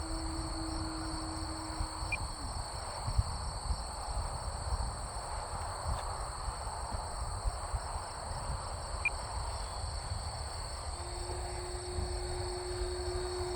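Small electric RC aerobatic plane flying at a distance. A faint steady tone from its motor and propeller, or the homemade exhaust whistle glued to its belly, fades a couple of seconds in, dipping slightly in pitch as it goes, and returns near the end. Underneath are a steady high insect-like drone and low wind rumble on the microphone.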